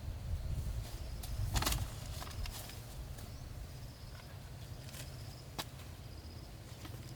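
Outdoor ambience: a low steady rumble, a faint high chirp repeating in short runs, and a few sharp clicks or snaps, the loudest about a second and a half in.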